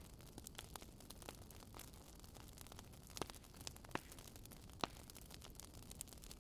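Wood campfire crackling softly: scattered small sharp pops and snaps, with three louder pops in the middle, over a faint steady low rush of a river.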